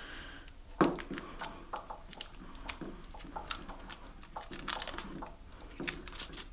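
Hands pulling apart a motorbike wiring loom: irregular clicks and crinkly rustles of plastic tape and wires being handled.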